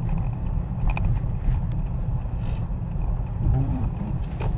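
Road noise inside a moving car's cabin: a steady low rumble from the engine and tyres on a snowy road, with a few faint clicks and a brief hiss about halfway through.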